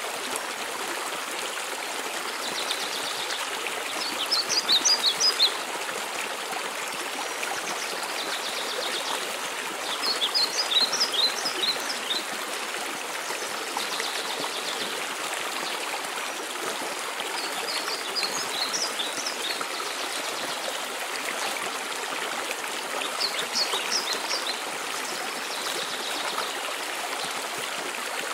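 Steady rush of falling mountain water. A songbird sings four short phrases of quick high notes, about every six seconds, with softer buzzy trills in between.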